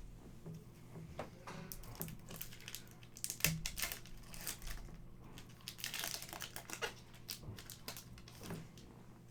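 Hockey trading cards being handled and flipped through: irregular rustling, crinkling and soft clicks of card stock and packaging, busiest about six seconds in.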